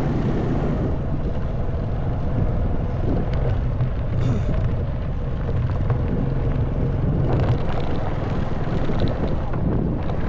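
Honda Wave 110cc single-cylinder four-stroke motorbike engine running steadily while riding, with wind buffeting the microphone and a few short knocks and rattles.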